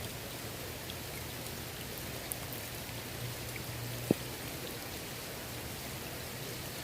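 Steady rain falling on a swimming pool, with scattered small drop ticks and a single sharp tap about four seconds in.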